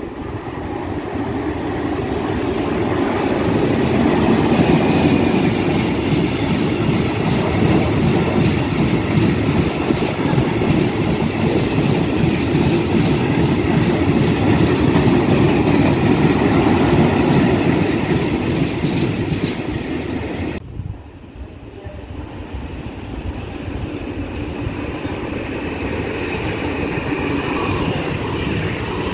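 Freight train of tarpaulin-covered coil wagons rolling past at speed, wheels clattering over rail joints in a quick even rhythm. About two-thirds in the sound cuts to a quieter EuroCity electric multiple unit rolling past.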